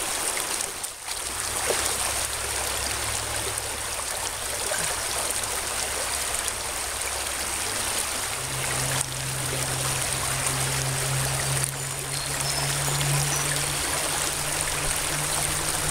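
Shallow stream riffle running steadily over rocks, with water trickling off a rock lifted out of the current.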